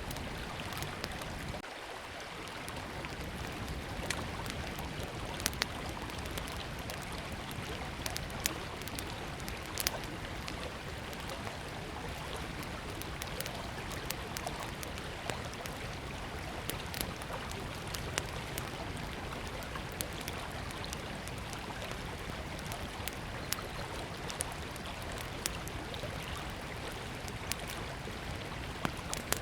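Small wood fire crackling, with frequent sharp irregular pops, over the steady rush of a flowing river.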